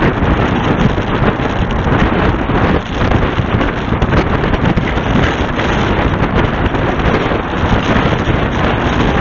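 Steady loud rushing noise of wind buffeting the microphone.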